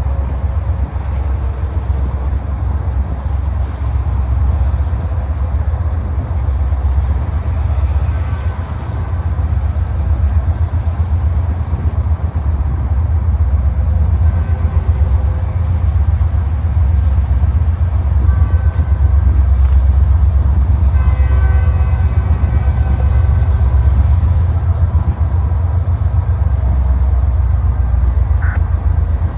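Loaded grain freight train rolling past, with the heavy, steady low rumble of its diesel locomotives and railcars on the rails.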